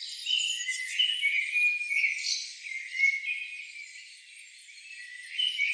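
Rainforest insect chorus: high, regular chirping with steady whistled calls that step in pitch over it.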